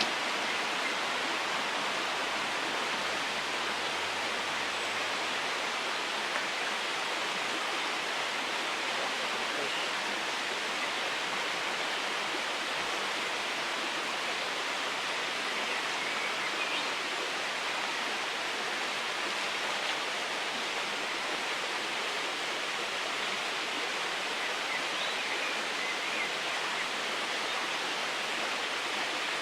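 Steady rush of a small river's water flowing over stones, an even noise that does not change.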